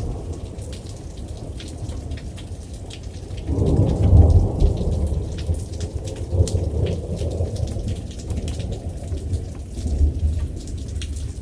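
Thunder rumbling through steady rain in a thunderstorm: a low roll swells up suddenly a few seconds in and keeps rolling, with another swell near the end.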